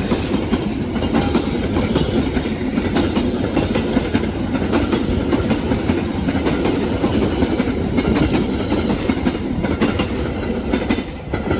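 Passenger train carriages rolling past close by, a steady loud rumble with the rapid clickety-clack of wheels over rail joints, easing off just before the end.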